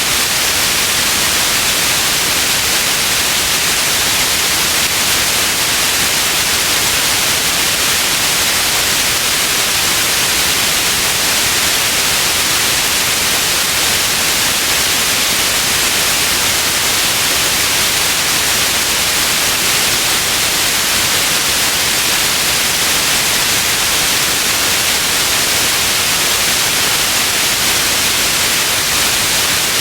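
Steady white noise: an even, constant hiss, strongest in the upper range, that does not change.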